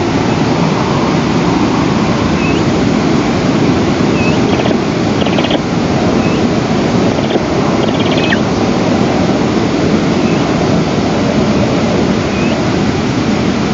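Steady wind rushing over an outdoor nest camera's microphone, a loud even rush with no pauses. A few faint, short, high chirps come through now and then.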